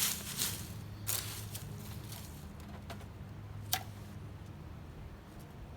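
Scattered light clicks and rustles from lighting dry leaf and pine-needle tinder with a BIC lighter, with one sharp click about three and a half seconds in, over a faint steady low hum.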